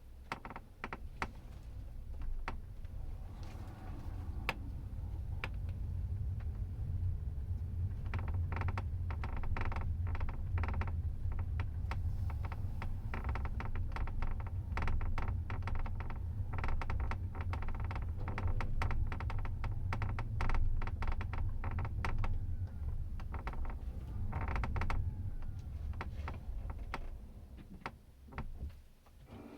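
Tesla Model S left rear suspension creaking and crackling, with many irregular sharp clicks over the steady low rumble of road noise inside the cabin while driving. The clicks are densest through the middle.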